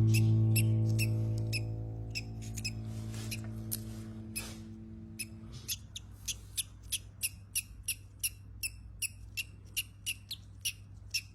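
Newly hatched baby bird peeping: short, high cheeps evenly spaced at about three a second. Under the first half, a held background-music chord fades away.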